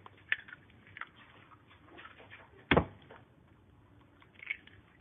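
Eggs being cracked on the rim of a bowl: a sharp knock early on and a louder one about two and a half seconds later, with faint clicks of shell and bowl in between.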